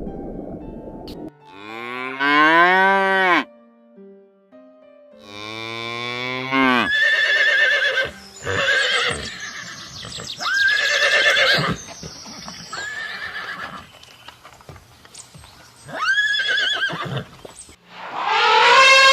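A series of about eight animal calls one after another. The first two are long and low with a falling-then-rising pitch, and the later ones are higher and shorter, each rising and then falling in pitch.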